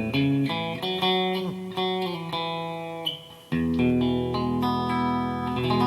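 Yamaha Pacifica PAC012 electric guitar played through an amplifier with the pickup selector in position 2, bridge humbucker and middle pickup together. It plays a run of picked single notes, then strikes a chord about three and a half seconds in and lets it ring, changing it shortly before the end.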